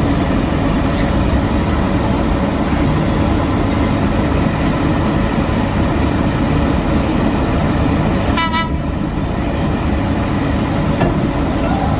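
Heavy construction machinery engines running steadily under load, a dense low rumble. About eight and a half seconds in there is one short horn toot.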